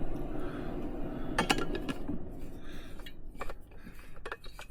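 A spoon stirring powdered milk into water in a cup, with a steady swishing followed by several sharp clinks of the spoon against the cup.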